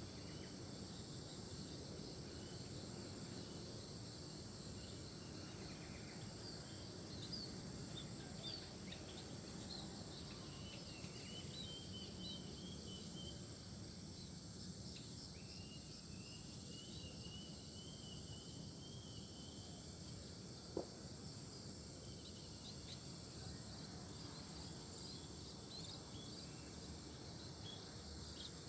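Rural outdoor ambience: a steady insect drone with scattered short, high bird chirps and a chattering run of bird notes partway through. A single sharp click sounds about two-thirds of the way in.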